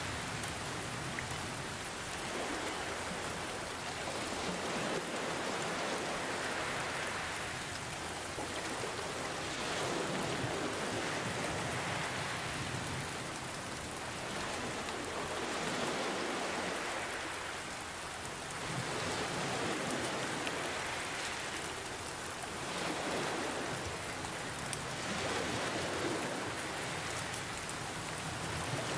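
Steady rain mixed with ocean waves, the sound swelling and easing every few seconds as waves wash in and draw back.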